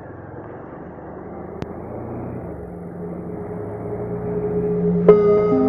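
A low rumbling noise that grows steadily louder, with ambient music notes coming in about five seconds in.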